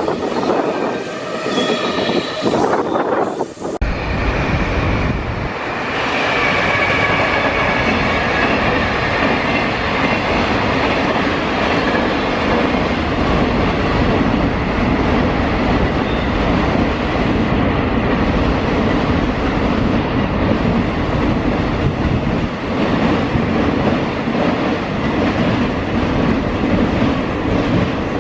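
Freight train running past: steady rolling noise of the wagons with wheels clattering over rail joints and a faint high wheel squeal. The sound changes abruptly just under four seconds in.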